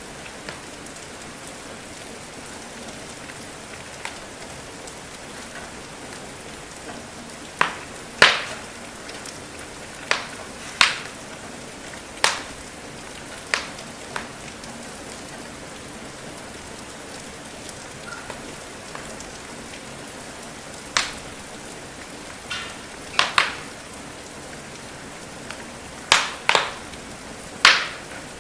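Steady rain hiss with the sharp, irregular pops and crackles of a wood fire burning in a fireplace, coming in small clusters.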